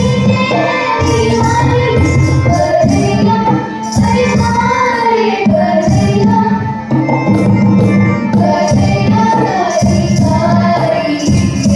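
Girls' voices singing a Kajri folk song together, over rhythmic instrumental accompaniment.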